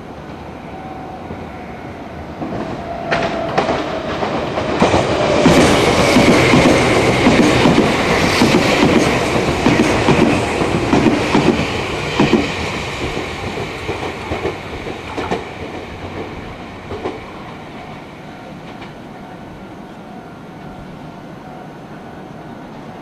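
Meitetsu electric train, white with a red band, passing through the station at speed: a rapid clatter of wheels over rail joints with a high whine, swelling over a few seconds, loudest in the middle, then fading away.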